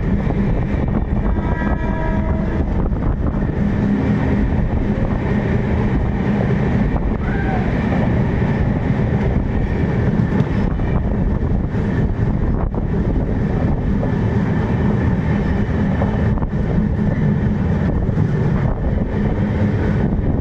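Steady running noise of the Tamil Nadu SF Express, an Indian Railways passenger train, heard from inside the coach as it travels, with a brief pitched tone about two seconds in.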